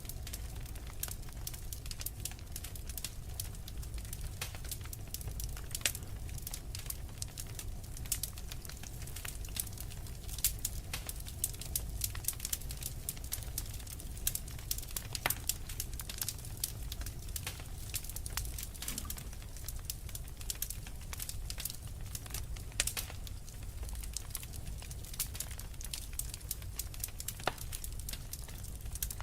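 Wood fire burning in a fireplace: logs crackling and popping in many irregular sharp snaps over a low, steady rumble of the flames.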